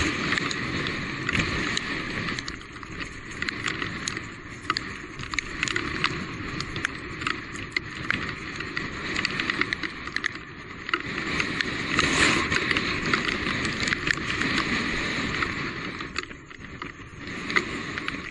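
Electric mountain bike ridden over a wet, rainy trail: a steady rush of tyre and rain noise, full of small clicks and rattles, growing louder about two thirds of the way through.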